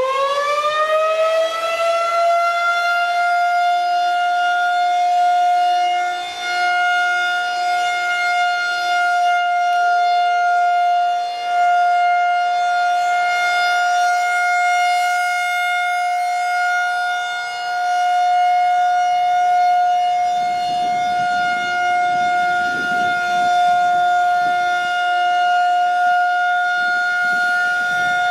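Federal Signal 2001-130 DC outdoor warning siren finishing its wind-up and then holding a steady Alert tone for a monthly test. The pitch levels off within the first couple of seconds, and the loudness dips briefly every five or six seconds.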